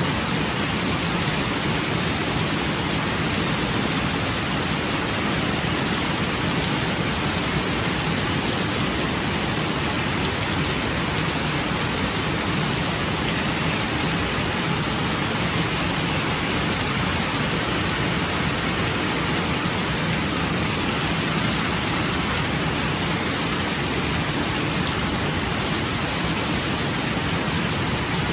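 Steady rain falling, an even hiss that holds without a break or a clap of thunder.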